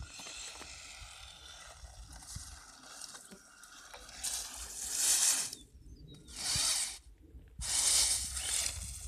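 ECX Torment RC truck driving with a faint hiss, then three loud bursts of rushing hiss, each about a second long, about four, six and eight seconds in.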